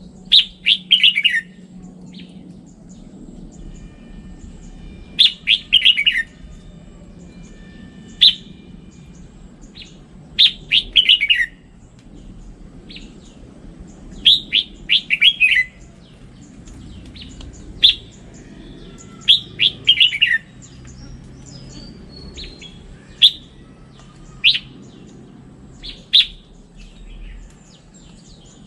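Red-whiskered bulbul singing: short, loud phrases of quick notes sliding down in pitch, repeated every two to four seconds.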